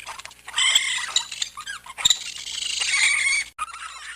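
Raccoon calling: high-pitched squeaky chittering in two main bursts, about half a second in and again about two seconds in, with fainter calls near the end.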